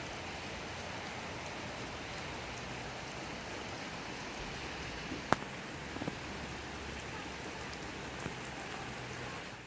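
Steady rain falling, an even hiss of drops, with a sharp tap of a single drop a little after halfway and a couple of fainter taps later.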